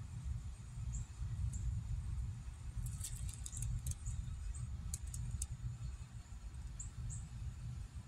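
Small birds giving short, high chirps and quick ticks, a cluster of them about three seconds in and another about five seconds in, over a constant low rumble.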